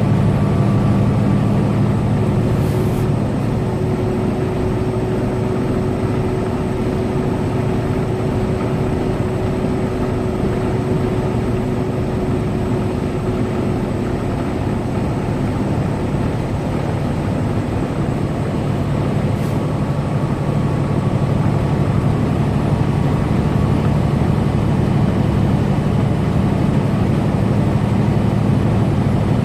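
Semi truck's diesel engine and road noise droning steadily at highway cruise, with a faint higher hum through the first half and two faint clicks.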